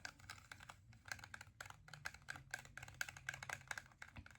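Fingernails tapping rapidly and irregularly on an eyeshadow palette's case, a quick run of light clicks several times a second.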